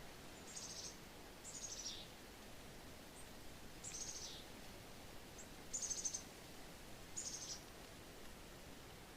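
A small songbird repeats a short, high trilled phrase that falls in pitch, five times, over a steady hiss of wind in the trees.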